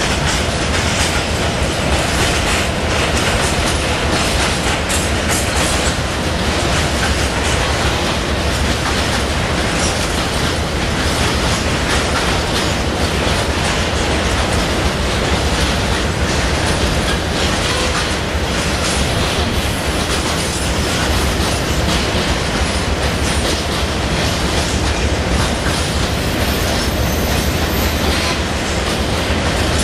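Freight train of tank wagons rolling past, its wheels clattering steadily over the rail joints.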